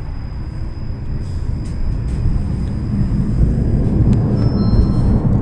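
Tram running along its track, heard from inside the car: a heavy low rumble that grows louder over the first few seconds as it gathers speed, with a thin high whine held throughout and a second whine joining near the end.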